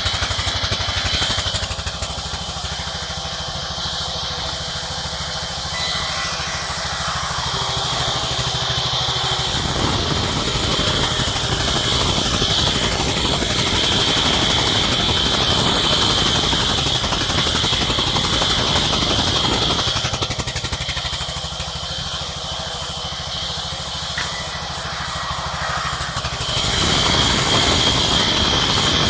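Sawmill machinery running while cutting wood, a steady loud mechanical drone. It grows heavier about a third of the way in, eases off about two-thirds of the way through, then swells again near the end.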